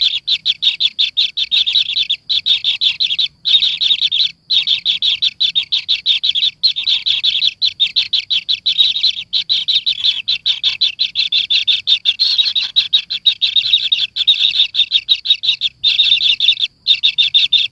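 Rapid, continuous high chirping from a nestling bird in its nest, the notes following each other many times a second with only a few short breaks.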